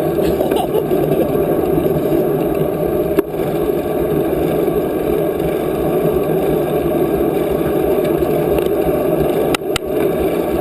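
Wind rushing over the microphone while riding a bicycle: a steady, loud rush, with a couple of brief clicks and dropouts.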